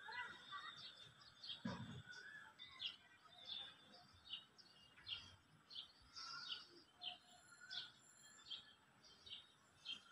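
Small birds chirping faintly, short high chirps repeating about once or twice a second, with a brief knock about two seconds in.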